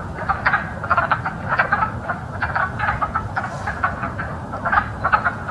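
Breeding chorus of wood frogs: many short calls overlapping in a dense, unbroken din.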